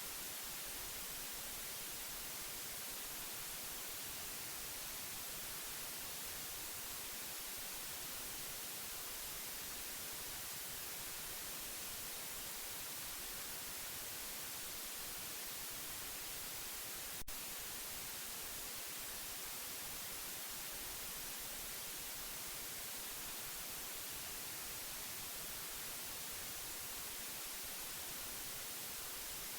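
Steady white noise for lulling a baby to sleep: a constant, even hiss weighted toward the high end, with one brief click a little over halfway through.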